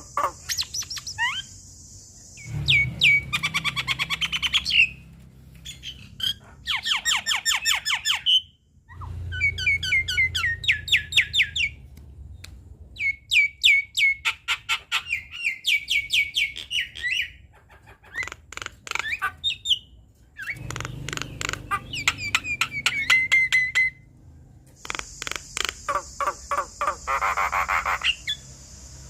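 Javan myna singing a loud, varied song in bouts several seconds long: rapid rattling series of clicks mixed with whistled and harsh squawking notes, with short pauses between bouts.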